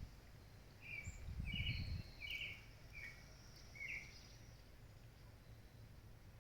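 Birds calling faintly: about five short chirps between one and four seconds in, over a quiet rural background. A brief low rumble runs under the first two seconds.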